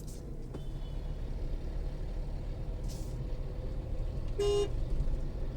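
Tata Altroz 1.2-litre three-cylinder petrol engine and road noise, a steady low rumble heard inside the cabin while driving in fifth gear. A short car horn toot comes about four and a half seconds in.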